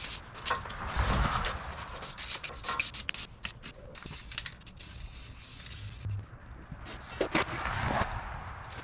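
Scraping and rubbing with scattered clicks from hands-on work at a greased tractor loader pivot pin joint, with a couple of louder scrapes about a second in and near the end.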